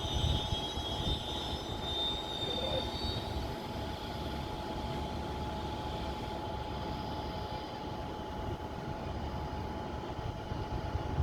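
Goods train behind a WAG-7 electric locomotive rolling past: a steady rumble with a constant hum, and a high-pitched squeal that fades out about three seconds in.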